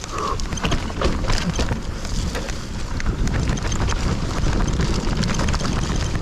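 Hardtail mountain bike rattling and clattering over a rough trail at speed, with many quick knocks from the frame and chain, under a steady low rush of wind on the microphone.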